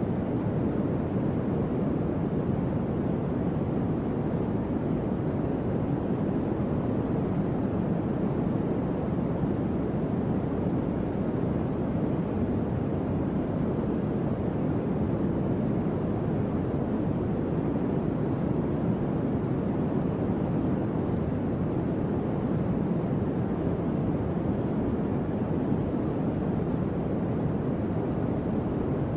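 Electric fan running with a steady low whooshing hum of moving air, unchanging throughout.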